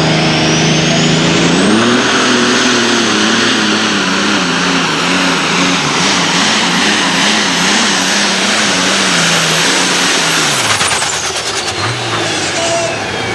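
Super stock pulling tractor's turbocharged engine at full throttle under load, with a high turbocharger whine that rises over the first couple of seconds. The engine note climbs about a second and a half in and wavers as it pulls, then the throttle comes off about 11 seconds in and the whine winds down.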